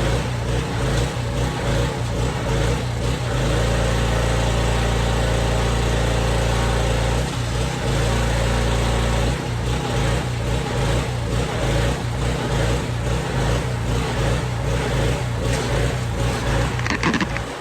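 Honda-clone small gasoline engine on a pressure washer running. It runs smoothly for a few seconds, then unevenly.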